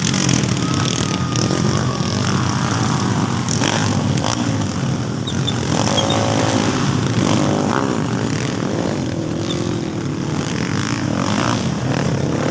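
Several motocross motorcycle engines running and revving on a dirt track. One engine's pitch swings up and down around the middle.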